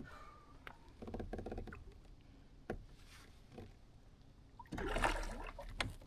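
Handling noise in a kayak: scattered light knocks and bumps against the hull, with a louder rush of noise about five seconds in.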